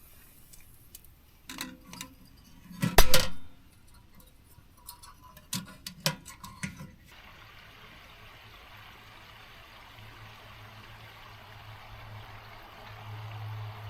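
Scattered knocks and clicks, the loudest a sharp double knock about three seconds in. After about seven seconds they stop and a steady, even hiss with a faint low hum carries on.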